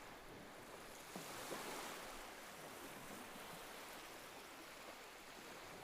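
Faint ocean surf: a soft wash of waves that swells about a second in and then slowly eases.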